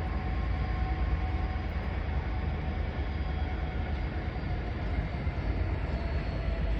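A train running, a steady low rumble with a faint steady whine.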